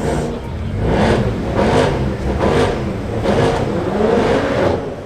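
A car engine revved in a series of about five quick blips, each rising in pitch and dropping back, roughly one a second, dying away near the end.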